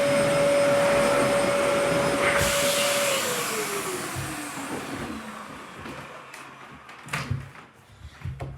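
Vacuum cleaner running steadily, then switched off about three seconds in, its motor whine falling in pitch as it spins down. A few soft knocks follow near the end.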